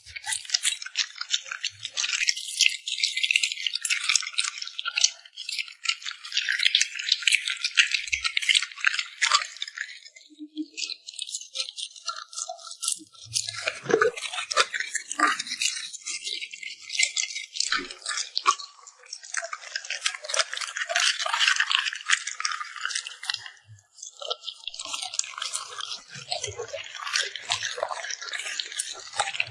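A dog eating, with dense rapid crunching and wet clicking from its teeth and lips. It eases off briefly a few times before resuming.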